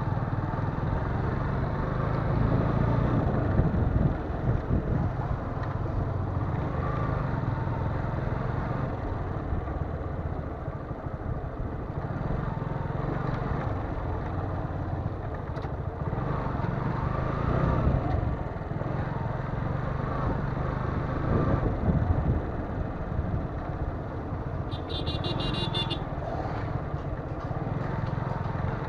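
Motorcycle engine and road and wind noise while riding, a steady low rumble throughout. A brief high-pitched beeping sounds near the end.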